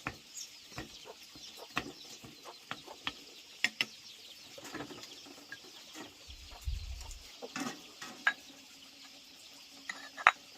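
Chickens clucking now and then, among scattered short clicks and knocks.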